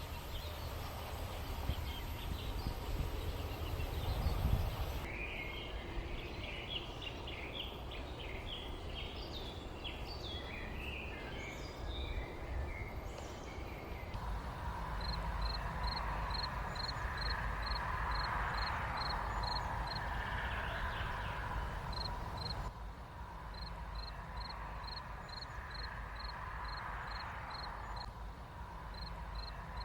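Countryside ambience: birds chirping in a busy flurry, then a steady series of short, high chirps about two a second, over a low background rumble. The background changes abruptly several times.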